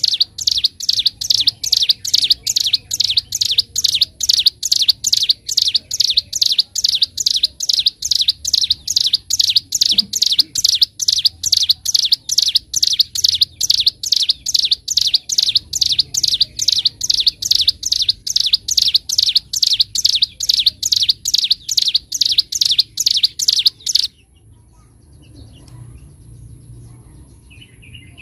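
Ciblek gunung songbird singing a fast, loud string of sharp, high chirps repeated evenly about three times a second, the rapid 'ngebren' song prized by bird keepers. The song cuts off abruptly near the end, leaving a few seconds of faint background.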